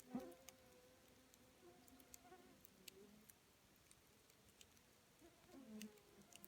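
Wood campfire burning quietly, giving off sparse faint crackles and pops. Brief wavering buzzes come once at the start and again near the end.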